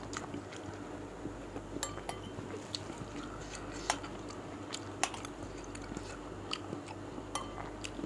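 Chewing and mouth sounds picked up close by a chest microphone, with a few sharp clinks of a metal spoon against a ceramic bowl of meatball soup.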